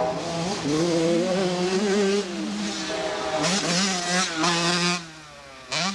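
Two-stroke motocross bike engine, a Yamaha YZ85, revving on the track, its pitch rising and falling as the throttle is worked. The sound drops away about five seconds in, then a brief sharp rev climbs just before the end.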